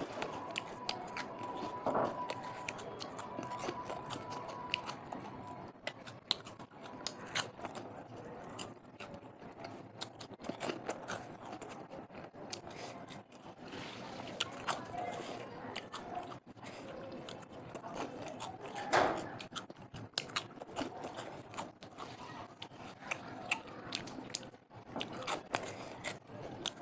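Close-miked eating: a steady run of crisp crunches, bites and chewing of crunchy snacks, with a few louder crunches about two seconds in and again near two-thirds of the way through.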